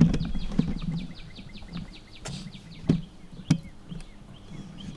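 A bird's rapid, high trill of about twenty short falling notes, lasting just under two seconds, over a low rumble. Then three sharp knocks about half a second apart, the loudest sounds here.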